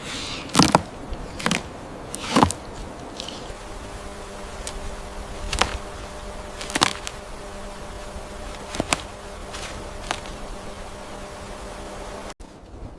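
An insect buzzing steadily at one pitch, starting about four seconds in and cutting off suddenly near the end. Several sharp snaps sound in between.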